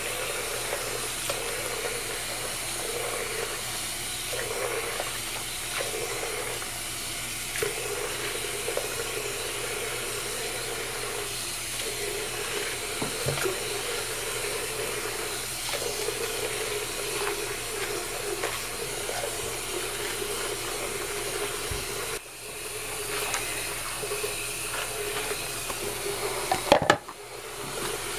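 Tap water running into a filling bathroom sink, a steady rushing noise. It drops for a moment about three-quarters of the way through, and there is a sharp knock near the end.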